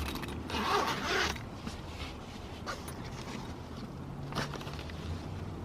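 Zipper of a Hot Logic portable food-warmer bag being drawn open in one pull lasting about a second, followed by faint handling clicks.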